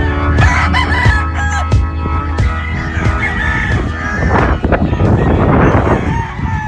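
Gamefowl roosters crowing and clucking over background music.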